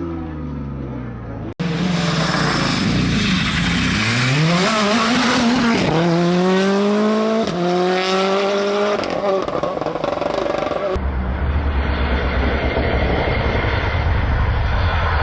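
Rally car engine accelerating hard, climbing in pitch and dropping back through several upshifts. After an abrupt cut about 1.6 s in, it changes near the end to a lower, steady engine rumble. At the start, another car's engine note falls away.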